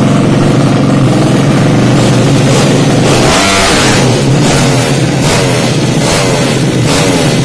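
Racing-tuned Yamaha Jupiter 155 motorcycle engine, a bored-up four-stroke single, running loud at high revs. It revs up about halfway through, then keeps rising and falling in quick swells.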